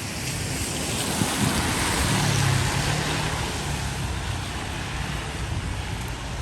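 A vehicle passing on a wet road: tyre hiss swells to a peak about two seconds in and slowly fades, with a low engine hum under it at its loudest.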